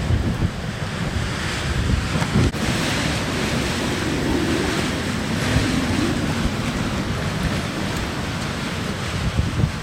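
Blizzard wind at hurricane force, blowing steadily with gusts that buffet the microphone in low rumbles. There is a single sharp click about two and a half seconds in.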